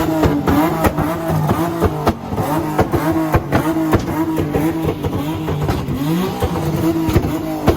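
Ford Mustang engine held on a two-step launch limiter: a steady, loud held-rev note chopped by rapid, irregular exhaust pops and bangs, with the revs dipping and climbing back a few times.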